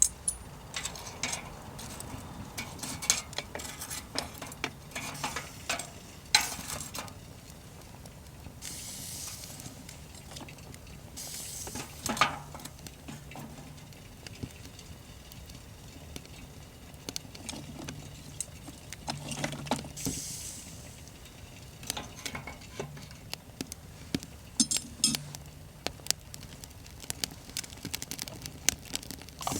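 Metal cutlery clinking and scraping against metal cookware in a run of scattered light knocks, with a few short stretches of hiss.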